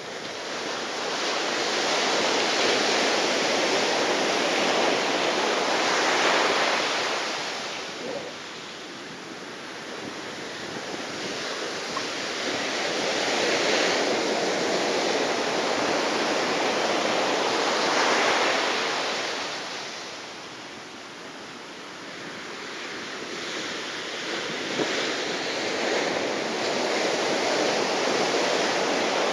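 Typhoon wind buffeting the microphone together with the wash of surf: a loud, steady rushing that swells and eases in long gusts every several seconds.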